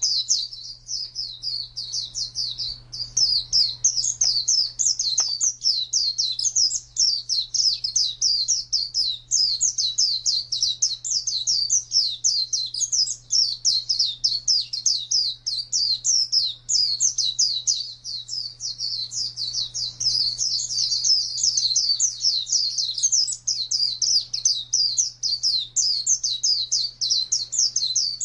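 White-eye (pleci) singing a rapid, nearly unbroken string of high chirping notes in the long, continuous 'ngalas' song style, with only brief pauses.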